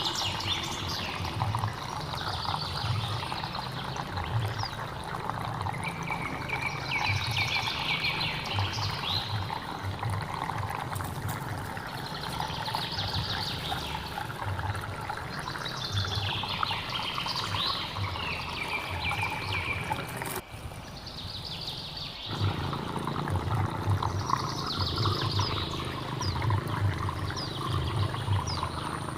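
Hill stream water running steadily, with a bird singing a short repeated phrase every three seconds or so. The water sound briefly drops away for about two seconds around two-thirds of the way through.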